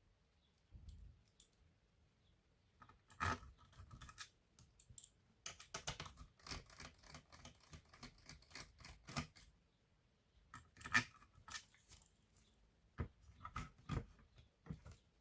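Hands working on an opened laptop: irregular clicks, taps and scraping of plastic and metal parts, with a denser run of scratching and clicking in the middle and a few sharper clicks.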